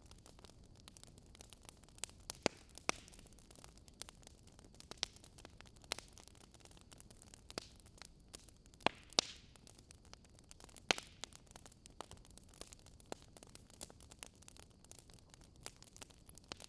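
Faint wood fire crackling: irregular sharp pops and snaps over a soft steady hiss.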